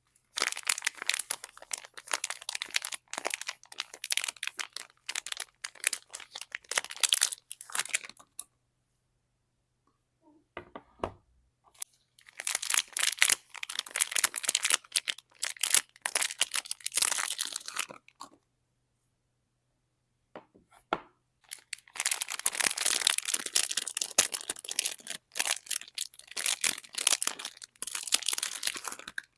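Soap wrapping being torn open and crinkled by hand in three spells of crackling and rustling, with short silent pauses between them.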